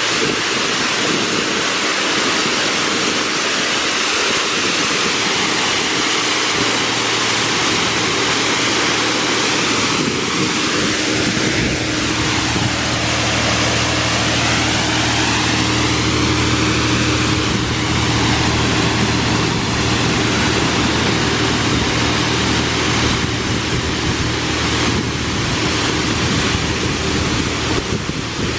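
Automatic car wash machinery spraying water over a car in a steady hiss. About ten seconds in, a low steady motor hum joins, and the spray sound swoops as the spraying equipment moves past.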